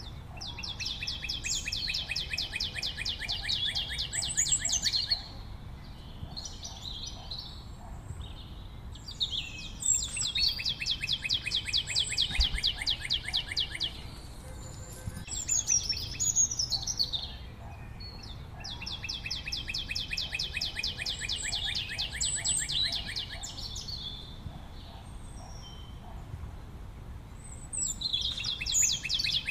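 Songbird singing long phrases of rapid, evenly repeated trill notes, each phrase lasting several seconds, with shorter chirping flourishes between them; the phrases come back about every ten seconds.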